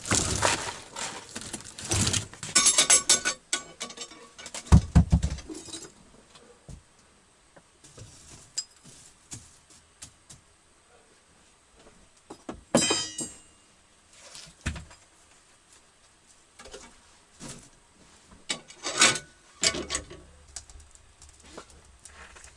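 Clattering and knocking of objects being handled, with a jingling metallic rattle about two to three seconds in and a heavy thud near five seconds. Then it goes mostly quiet, with a few separate knocks and clatters later on.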